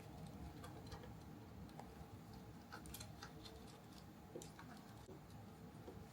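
Faint, irregular light clicks and taps of small hard parts being handled, over a low steady hum.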